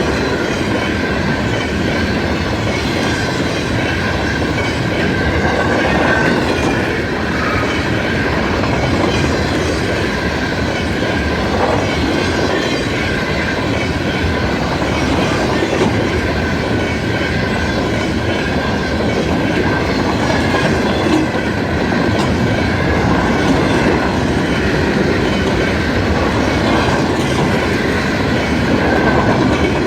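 CN freight train rolling past, its wagons' wheels clattering over the rail joints in a loud, continuous rumble, with a thin steady high tone above it.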